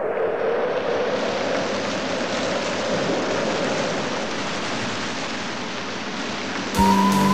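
Natural-sound ambience of rushing water, a steady wash of noise. Near the end, music comes in with held tones.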